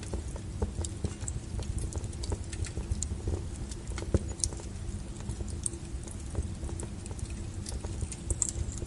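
Wood fire crackling: irregular snaps and pops over a steady low rumble of burning, with one sharper pop about four seconds in.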